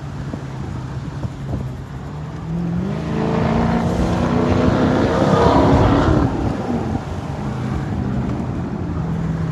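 Car engine accelerating hard, its pitch climbing for several seconds to a peak about five to six seconds in, then dropping back to a steady drone.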